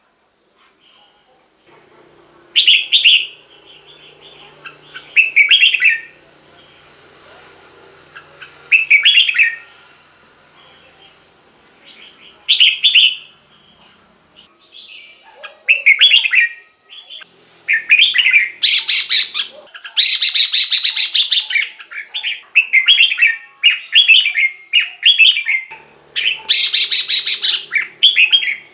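Red-whiskered bulbul singing short, loud warbled phrases every few seconds. About halfway in, the singing turns rapid and almost continuous, with several harsher chattering bursts.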